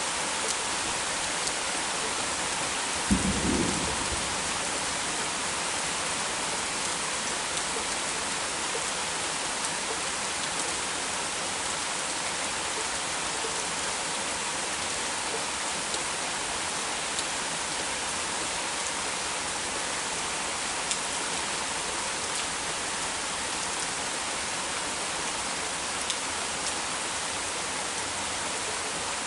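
Heavy rain falling steadily in a downpour. A short low boom about three seconds in stands out above the rain.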